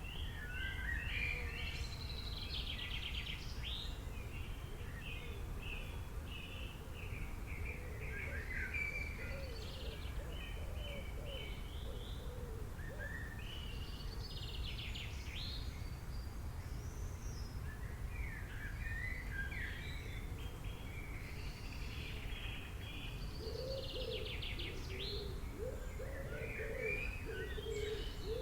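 Several small birds chirping and trilling in quick overlapping phrases, with a lower wavering call joining in now and then, over a steady low background rumble.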